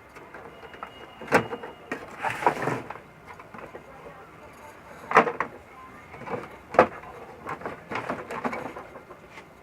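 Plastic housing of an HP LaserJet 1136 printer being handled as its side panel is opened: a scatter of sharp clicks and knocks with a brief rustle.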